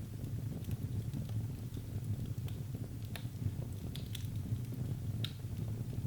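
Wood fire burning in a fireplace: a steady low rumble of the flames with scattered sharp crackles and pops, a few louder ones past the middle.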